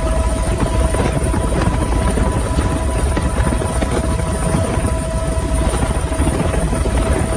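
A motor running steadily: a loud low rumble with constant whining tones above it.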